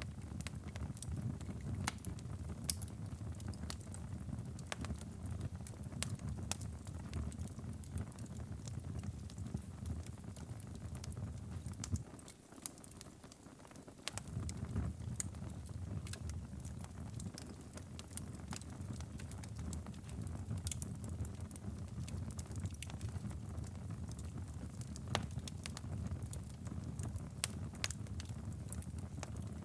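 Wood fire crackling, with frequent sharp pops over a low steady rumble; the rumble briefly drops away about twelve seconds in.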